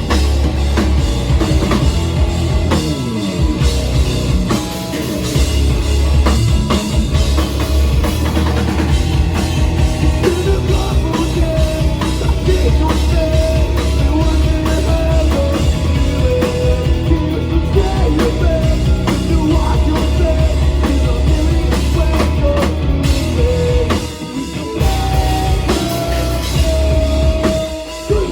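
Live rock band playing loud: drum kit, electric guitars and bass, with two brief breaks in the music near the end.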